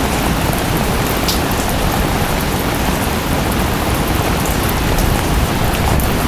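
Steady, loud rain mixed with the rush of a waterfall, an even dense noise with scattered drop ticks on top.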